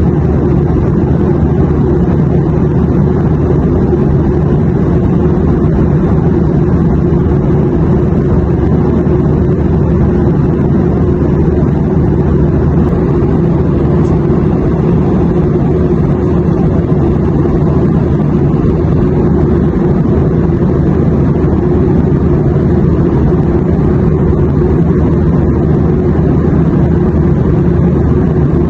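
Airplane engine drone: a steady, unchanging low rumble with a faint hum, loudest in the deep bass.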